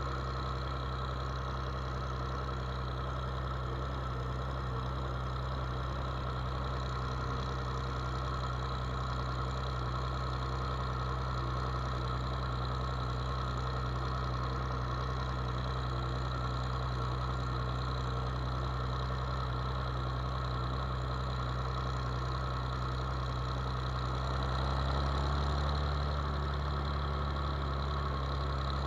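A farm machine's engine running steadily with a low, even hum; about 25 seconds in the engine note shifts and grows slightly louder.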